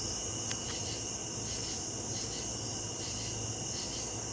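Night insects, crickets chiefly, calling in a steady high trill, with a second chorus pulsing slightly more than once a second, over a faint low hum.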